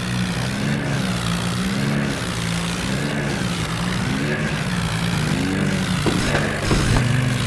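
Massey Ferguson tractor's diesel engine running hard under load, its pitch rising and falling in slow waves, with two short thuds near the end.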